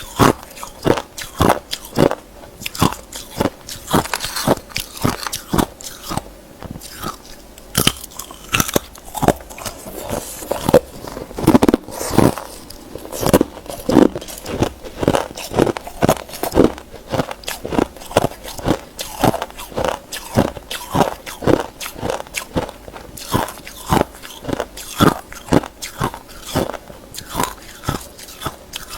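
Hard ice being bitten and chewed close to the microphone: a quick, steady run of sharp crunches, about two or three a second.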